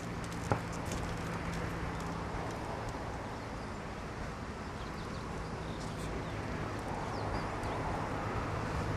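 Steady outdoor rumble with a faint low hum and one small click about half a second in. It grows slowly louder over the last couple of seconds as a vehicle approaches.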